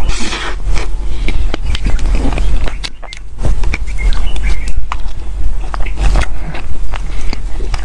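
Close-miked chewing and wet mouth sounds of eating soft cream-layered cake from a spoon, with many short, sharp clicks and smacks.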